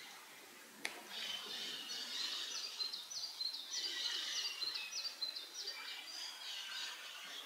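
A songbird singing a run of quick, repeated high notes, about three a second, over a background of other bird chatter. A single sharp click comes about a second in.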